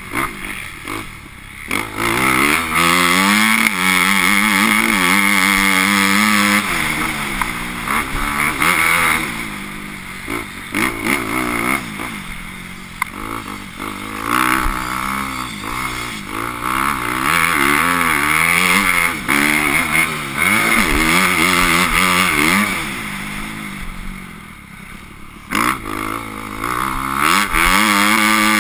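Motocross bike engine revving hard on a dirt track, its pitch repeatedly climbing and dropping as the throttle opens and shuts through the gears. It falls off briefly about ten and thirteen seconds in, and again for a couple of seconds near the end, before picking up again.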